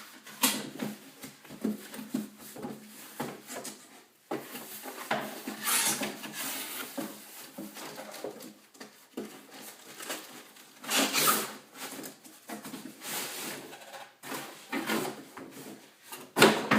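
Cardboard shipping box being opened and its packing handled: irregular rustling, scraping and short knocks, with louder sweeps about five, eleven and sixteen seconds in.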